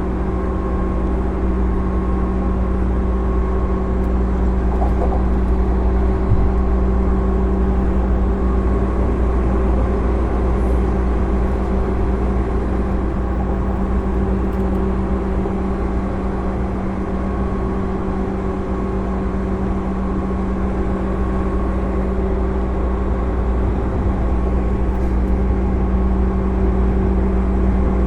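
JR 205 series electric train motor car with MT61 externally-fanned traction motors, running at a steady speed. A constant hum of motor and cooling-fan tones sits over the low rumble of the wheels on the rails.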